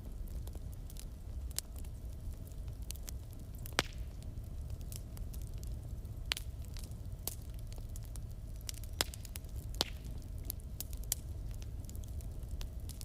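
Wood fire burning in a fireplace: a steady low rumble of the flames with irregular crackles and a few sharper pops from the burning logs.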